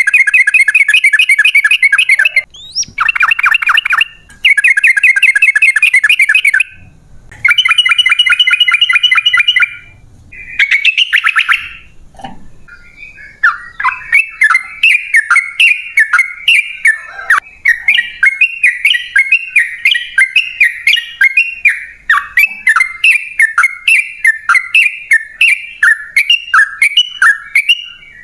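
Yellow-vented bulbul (trucukan) singing. In the first half it gives several loud, bubbly trilled phrases, each about two seconds long, with short gaps between them. From about halfway it sings a long unbroken run of quick, chopped notes, several a second.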